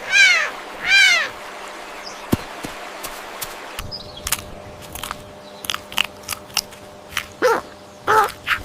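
Two loud arched animal calls about a second apart, rising and falling in pitch. Then come scattered clicks and, near the end, a few shorter calls that slide down in pitch.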